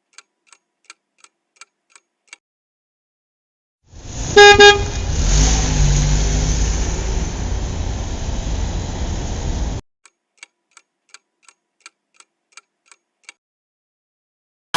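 A vehicle horn honks twice, and a vehicle engine runs for about five seconds, then cuts off suddenly. Before and after it come faint regular ticks, about three a second.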